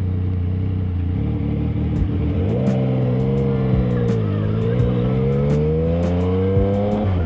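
Vehicle engine running. Its note drops about two and a half seconds in, then climbs steadily as it accelerates, and cuts off sharply near the end, over a steady low drone.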